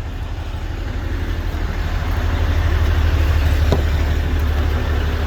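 2008 6.6 L Duramax turbo-diesel V8 idling steadily, growing a little louder after about two seconds, with one short click a little past the middle.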